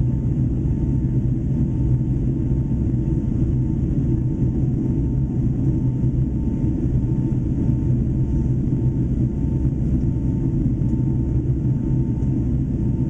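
Boeing 757-300 jet engines and airflow in flight after takeoff: a loud, steady low rumble with a faint thin tone held above it.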